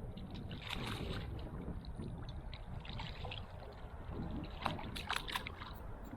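Wind buffeting the microphone in a steady low rumble, with a few short sharp sounds about a second in and again around five seconds in.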